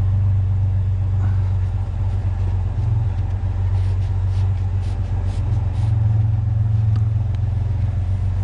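Vehicle engine idling steadily, with a few faint brief rustles from rope being handled while a load is tied down.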